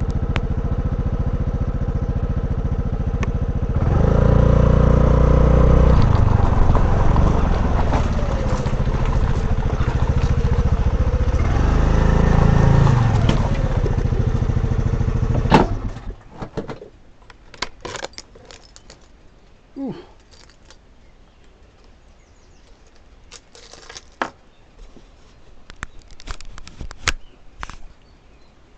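Honda Navi's small single-cylinder engine running, rising louder twice. It cuts off with a click about fifteen seconds in, leaving only scattered light clicks and knocks.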